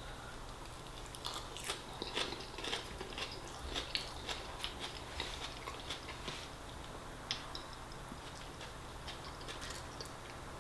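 A person chewing a mouthful of crisp lettuce salad close to the microphone: soft crunches and wet mouth clicks about twice a second, thinning out after about seven seconds.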